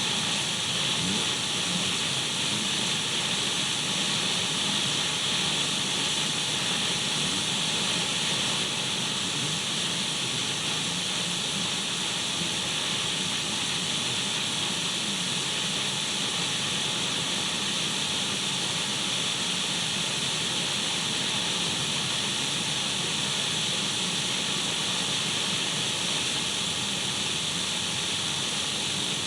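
Radio static: a steady, unchanging hiss of untuned radio noise, brightest in the upper range, with a few faint steady tones running through it.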